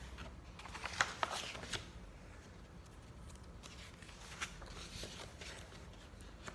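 Paper rustling with a few soft clicks as a picture book's pages are handled and turned, busiest about a second in.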